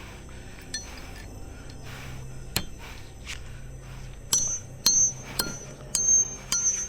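A run of sharp metallic knocks, about five in the second half, each with a short high ring, over a faint steady hum.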